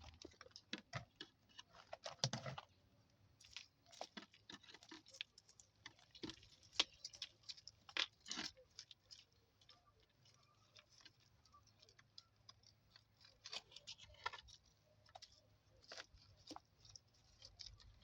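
Faint, irregular crunching and clicking, in clusters of quick crackles with short gaps between them.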